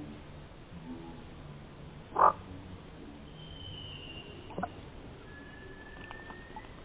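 Outdoor animal calls: one short, loud croak-like call about two seconds in and a weaker one a couple of seconds later, with faint rising whistles.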